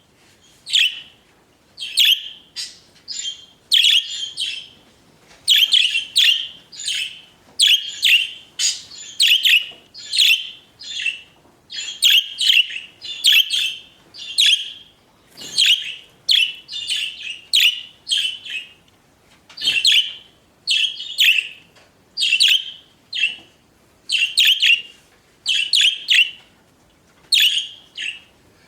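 Pet budgerigars chirping: a continuous run of short, sharp, high chirps, one to two a second, with brief pauses between them.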